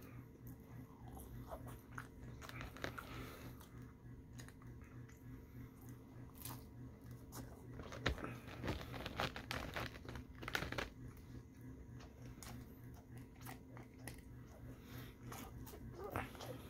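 Close-up mouth sounds of someone eating seasoned fries: crunching bites and wet chewing with small mouth clicks, busiest and loudest about halfway through. A steady low hum runs underneath.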